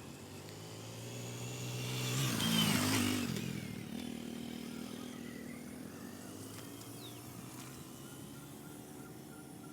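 A motorcycle engine passing by, growing louder to a peak about three seconds in, then fading away.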